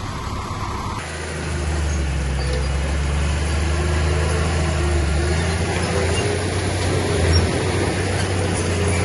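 Heavy earthmoving machine's diesel engine running steadily with a deep drone, getting louder and fuller about a second in.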